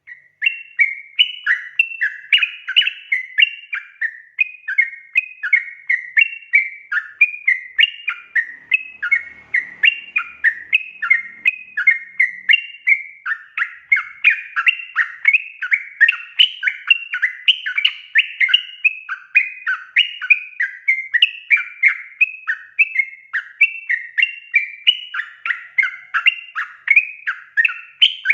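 Yellow-vented bulbul (trucukan) calling in a rapid, unbroken run of bubbly chattering notes, several a second.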